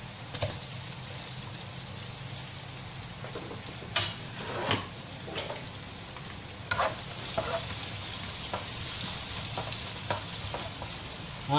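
Sliced onions, ginger and garlic sizzling in hot oil in a non-stick wok as they are sautéed, with a few sharp knocks as the onion slices drop in and scraping as a spatula stirs them.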